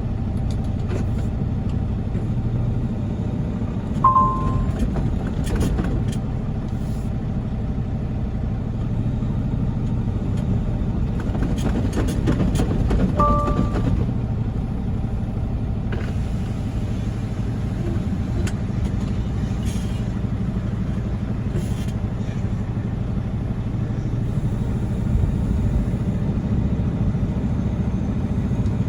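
Heavy diesel truck engine running steadily with a low rumble, as a stuck semi truck is pulled out by a wrecker. Two brief high chirps sound about four seconds in and again around thirteen seconds.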